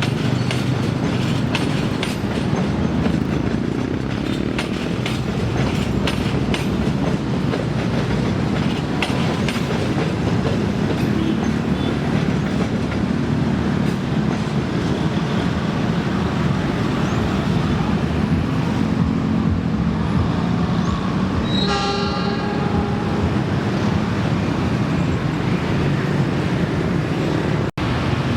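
A train rumbles past at close range, its wheels clacking over the rail joints. About three quarters of the way through, the locomotive gives one short horn blast lasting about a second and a half.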